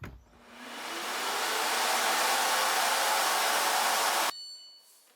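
LG Objet A9S vacuum motor switched on with a click, its whine rising as it spins up to a steady rushing run, then cut off suddenly about four seconds in.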